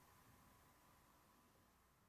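Near silence: a faint hiss and low rumble, fading out.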